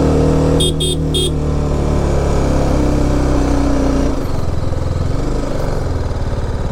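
BMW G 310 RR's single-cylinder engine pulling under load on a steep climb, its note steady and then dropping to a lower, rougher beat about four seconds in. Three short horn beeps sound about a second in.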